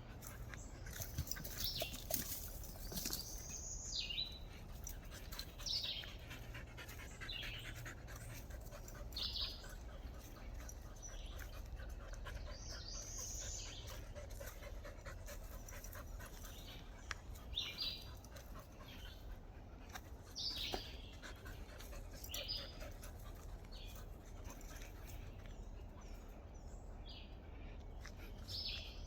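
A dog panting, with birds chirping again and again throughout.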